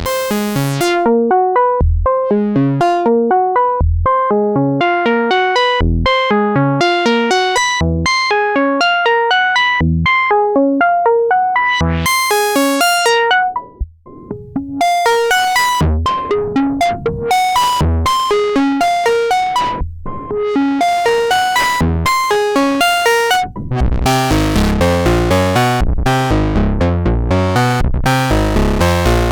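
Novation Bass Station II analog monosynth playing a driving eighth-note sequence of short pitched notes, with a deep bass note about every two seconds. The sound briefly drops out near the middle, and in the last few seconds the tone turns thicker and bassier.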